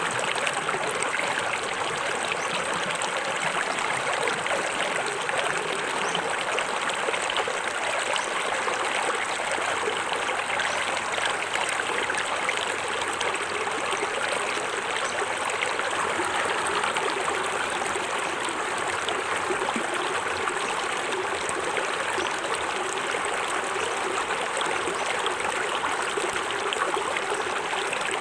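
Small forest waterfall, water splashing and running steadily in an even rush with no breaks.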